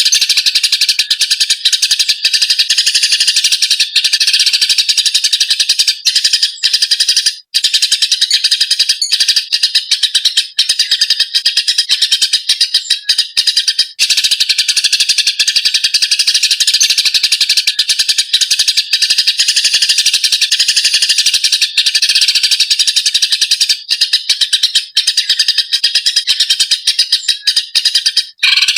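Eurasian tree sparrows (burung gereja) chattering in a rapid, unbroken stream of harsh chirps, the agitated calls of sparrows fighting. The chatter stops briefly a little past the quarter mark and again just before the end.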